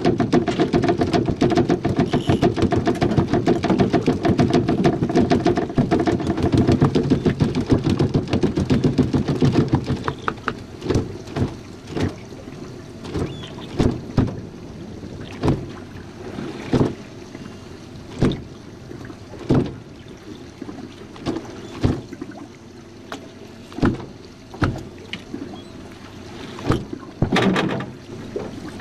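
A boat's outboard motor running steadily, then shutting down or throttling back about ten seconds in. After that, sharp slaps come every second or two: water hitting the jon boat's hull as it rocks.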